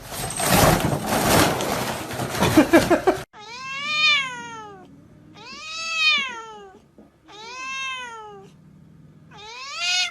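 Domestic cat meowing four times, each a long drawn-out meow that rises and then falls in pitch. Before the meows comes about three seconds of loud rushing noise that stops abruptly.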